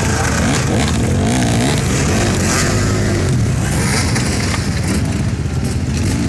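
Several enduro dirt bikes' engines running together while the bikes ride up out of a ravine, their revs rising and falling and overlapping.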